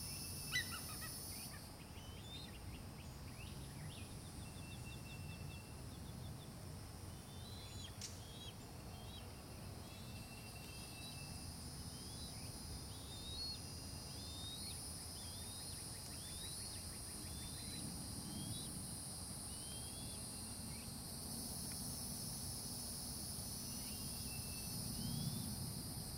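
A bird calling repeatedly in short rising notes, roughly one a second, over a steady high-pitched insect chorus.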